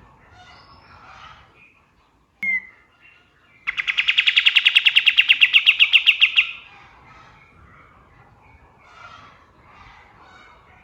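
Kapas tembak songbird giving a loud, fast rattling trill of about nine notes a second that lasts roughly three seconds, shortly before the middle. Softer bird chirping runs underneath, and a short sharp note sounds a second before the trill.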